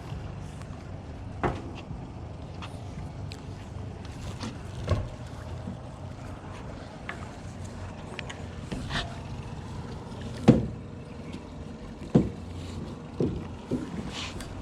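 A boat on the water with a steady low engine hum and several sharp knocks, the loudest about ten and a half seconds in.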